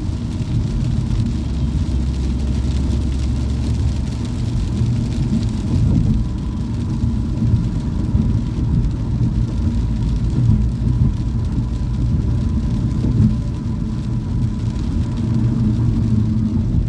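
Steady rumble of a car's engine and tyres, heard from inside the moving car's cabin.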